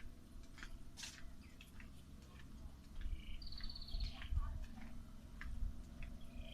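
A small animal's high-pitched chirping call: a fast trill followed by a lower note, heard once about three and a half seconds in, over scattered faint clicks and a low rumble.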